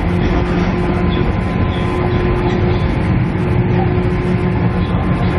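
Inside a KiHa E130 diesel railcar under way: a steady diesel engine drone over continuous wheel and rolling noise, heard binaurally in the cabin.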